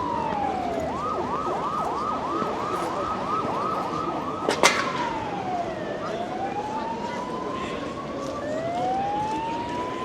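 Emergency vehicle siren passing in the street: a falling wail, then a fast yelp for about four seconds, switching back to a slow rise-and-fall wail, over a steady hiss of rain. A single sharp click about halfway through is the loudest moment.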